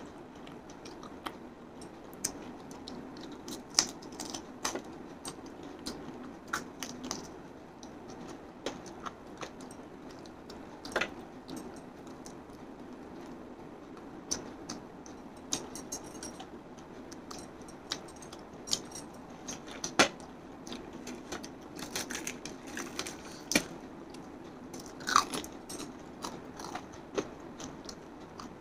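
A person chewing and biting crispy fried chicken (KFC Hot & Crispy), with irregular sharp crunches of the breading over a steady low hum.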